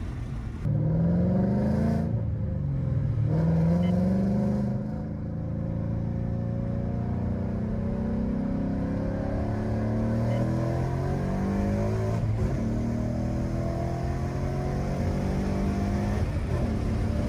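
A 2018 Mustang GT's 5.0-litre V8, E85-tuned with bolt-ons, heard from inside the cabin. The engine note climbs under hard throttle from about a second in, drops at an upshift about two seconds in, and climbs again. The car then eases off to a steadier engine drone that rises and falls gently as it drives on.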